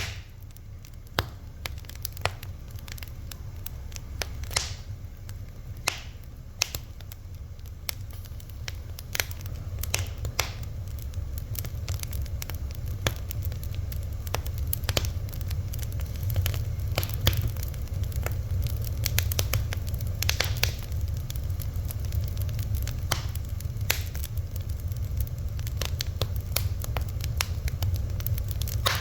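Wood fire crackling: irregular sharp pops and snaps, several a second at times, over a steady low rumble of the flames.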